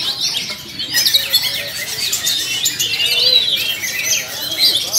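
Two Sumatran oriental magpie-robins (kacer) singing together in a duet: a dense, continuous stream of fast, varied chirps, whistles and trills.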